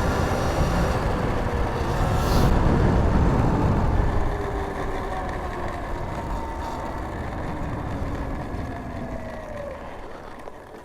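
Sur-Ron electric dirt bike being ridden: heavy riding noise and a motor whine that ease off about four seconds in, the whine slowly falling in pitch as the bike slows.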